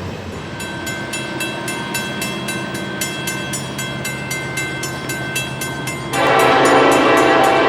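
Train passing with a rapid, evenly repeated ringing of a grade-crossing bell; about six seconds in, a locomotive air horn comes in loud and holds a steady chord.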